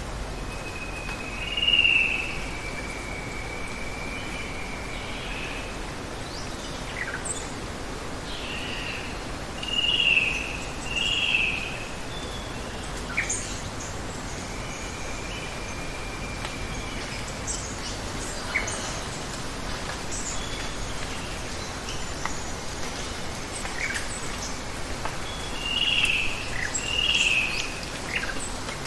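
Rainforest ambience: a steady hiss of running water under birds calling. The loudest calls are short, sharp notes, one about two seconds in and pairs about ten and twenty-six seconds in, with scattered brief high chirps and a thin held high tone between them.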